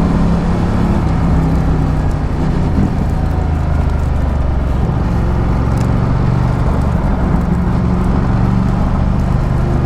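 Ducati Multistrada 1200 V-twin engine running at low, steady revs, its pitch dropping slightly about three seconds in and then holding.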